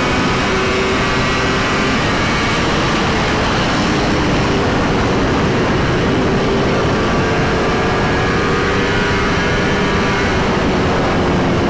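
Superbike engine running at speed, its pitch drifting only gently, buried in heavy wind rush on the microphone.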